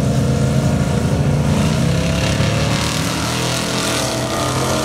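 Two classic muscle cars, one a Ford Ranchero, launching off a drag-strip start line at full throttle. The engines run loud, their pitch climbing as the cars accelerate away.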